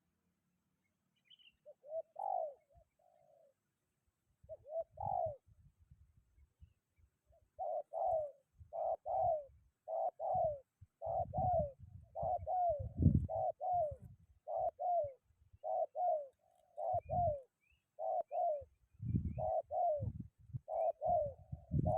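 Spotted dove cooing: a couple of single coos, then a steady run of repeated coos at about one a second. Uneven low rumbles of strong wind buffet the microphone.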